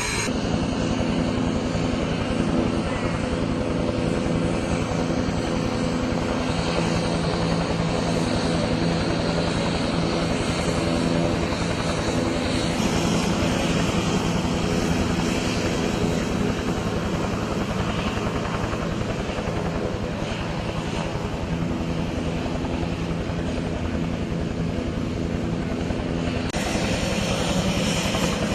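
Propeller aircraft engines running steadily, a continuous drone with a constant low hum.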